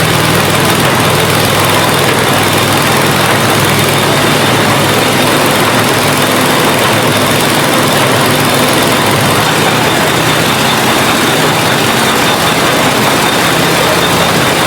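A heavy engine running steadily at constant speed, loud and unchanging throughout.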